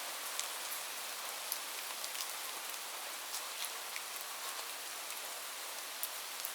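Steady rain falling on a surface, an even hiss with the sharp taps of single drops scattered through it.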